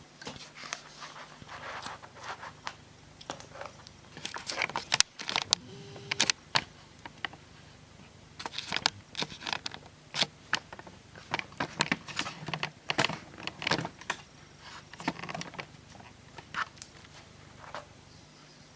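Hands handling laptop screen parts and the display cable: irregular clicks, taps and crinkly rustles of plastic, coming in clusters.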